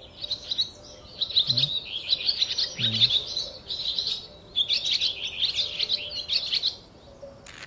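Small birds chirping and twittering rapidly in busy runs, with a short break just past the middle.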